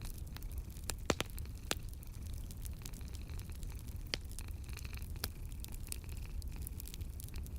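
Wood fire crackling in a fireplace: irregular sharp pops and snaps over a steady low rumble, with the loudest pops about a second in and again around the middle.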